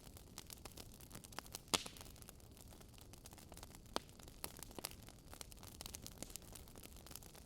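Wood fire in a fireplace crackling: a constant run of small pops and snaps over a faint steady hiss, with a louder pop about two seconds in and another about four seconds in.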